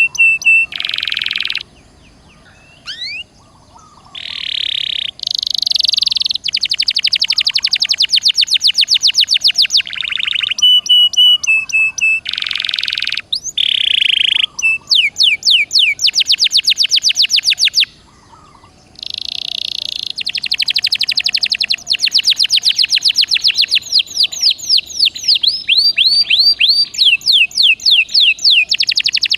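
Domestic canary singing loudly in long phrases: buzzy rolls alternate with rapid trills of repeated sweeping notes, broken by short pauses about two seconds and eighteen seconds in.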